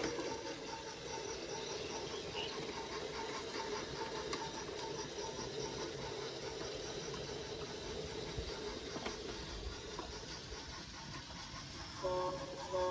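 Small electric motor of a battery-powered toy train running with a steady whine, its wheels rolling on wooden track, fading away after about ten seconds. Near the end a short run of clean electronic tones starts.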